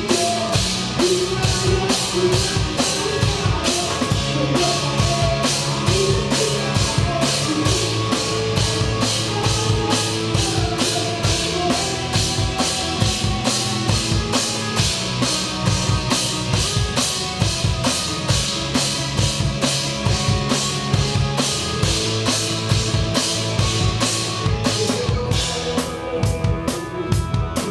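Live band music heard from beside the drum kit: the drums are up front, with a steady beat of kick, snare and cymbal strokes over bass guitar and other instruments.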